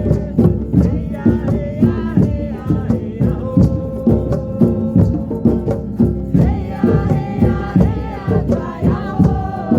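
Chant-style singing, several voices, over a steady drum beat of about two strokes a second, with a rattle shaking along.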